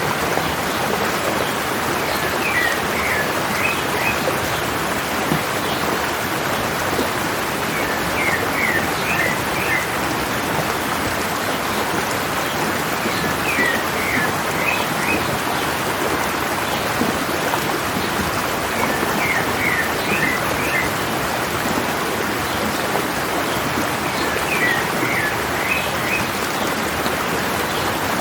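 Mountain stream water running steadily over rocks. Over it, a bird repeats a short phrase of about five quick high notes roughly every five seconds.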